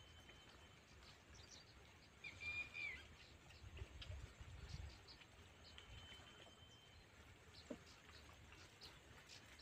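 Quiet outdoor ambience of small birds: faint high chirps and thin whistled notes, with one clearer whistled call about two and a half seconds in, over a low rumble.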